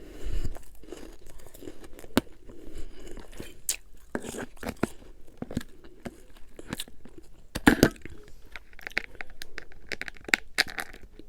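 Close-up crunching of refrozen freezer frost and humidifier ice being bitten and chewed, with irregular sharp cracks and a louder cluster of crunches about three quarters of the way through.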